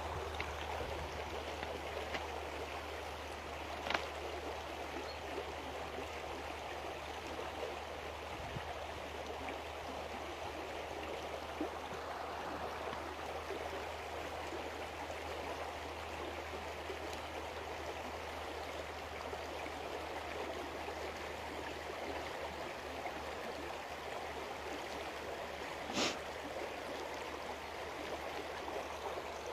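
River water flowing in a steady, even rush. Two sharp clicks break through, one about four seconds in and a louder one near the end.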